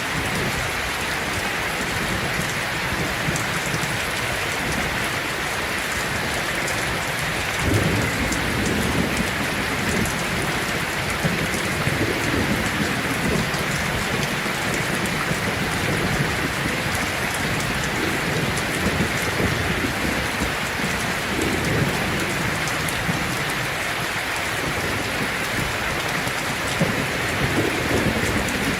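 Heavy rain drumming steadily on a tin roof, with a low rumble of thunder that rolls in about a third of the way through and swells and fades several times.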